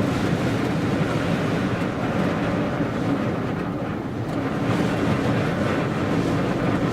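Strong gusting wind, blowing about 50 miles an hour, rushing around a parked Jeep and over the microphone: a loud, steady roar that swells and eases slightly.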